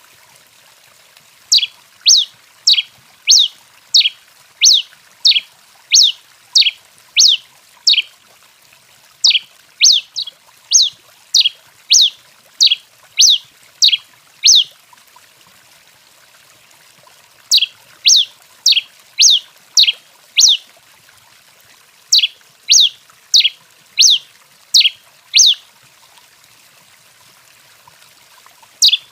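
A tico-tico-rei (pileated finch) singing: runs of sharp, high, downward-sliding notes at about one and a half a second. There are four bouts, separated by pauses of a second or more, and a fifth begins at the very end.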